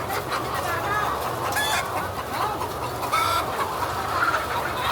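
A large flock of laying hens clucking and calling over one another in a dense chorus, with a few longer, louder calls standing out, over a steady low hum.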